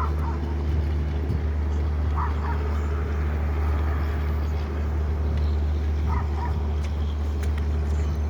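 An incoming boat's engine running with a steady low hum, and a dog barking briefly three times: at the start, about two seconds in, and about six seconds in.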